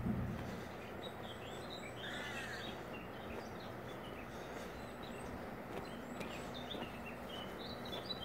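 Small birds chirping and singing in short, repeated calls over a steady outdoor background hiss.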